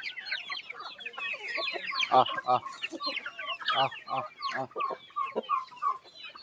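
Flock of Aseel chickens calling: a dense run of short, high chirps with lower clucks mixed in.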